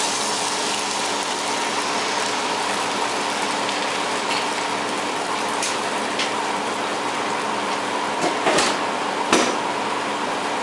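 Marsala wine sizzling in a pan of hot melted butter just after being poured in: a steady hiss, with a few short clicks in the second half.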